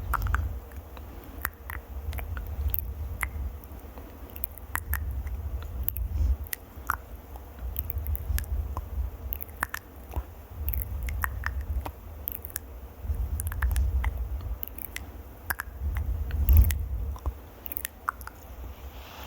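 A microphone being scratched and rubbed up close: repeated stretches of low rumbling handling noise, each a second or two long, with crisp crackles and clicks scattered through them.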